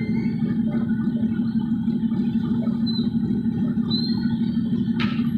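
Steady low drone of vehicle engine and road noise, with a brief sharp click about five seconds in.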